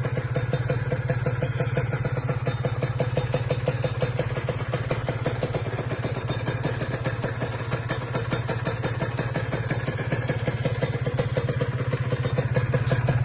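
Kawasaki Ninja 150 SS single-cylinder two-stroke engine idling steadily through a TYGA aftermarket exhaust, a rapid even run of exhaust pulses.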